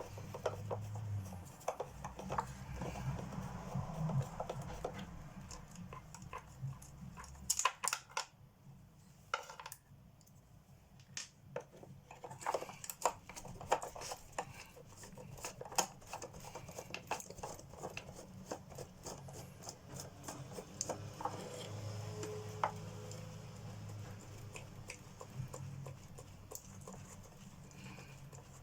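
Screwdriver undoing small screws on a vintage Hoover Junior vacuum's motor and suppressor, with scattered light metallic clicks and scrapes.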